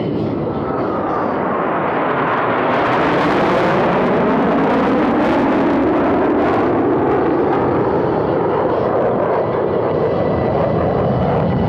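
Blue Angels F/A-18 Super Hornets, each with twin GE F414 turbofans, making a low fly-past. The jet roar builds over the first few seconds and stays strong, with a whine that falls in pitch as the jets go by.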